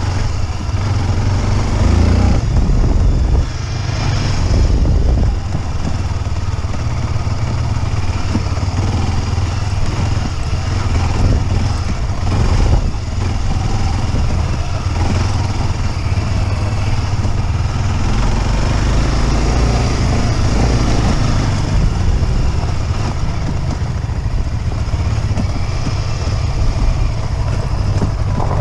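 Motorcycle engine running while riding, with a heavy low rumble throughout and a brief surge of loudness a couple of seconds in.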